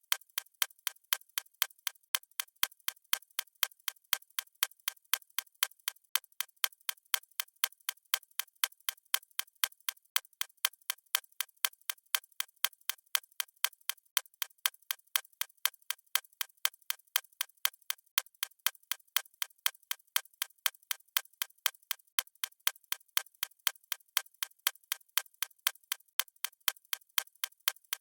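Clock ticking: a steady, even run of sharp, light ticks, several a second.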